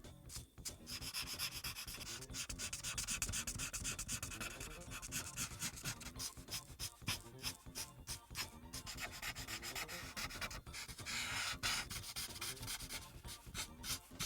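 Felt-tip marker rubbing across paper in quick, repeated back-and-forth coloring strokes, with a short pause and change of stroke near the end.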